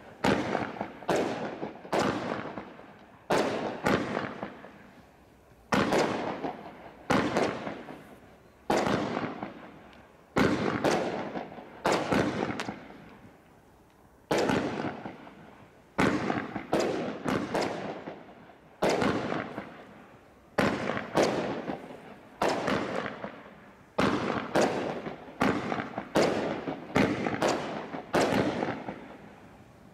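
Consumer aerial fireworks from a Bright Star Desert Storm crate, bursting in the sky one after another. Each is a sharp bang with a fading tail, about one a second, with a short lull near the middle.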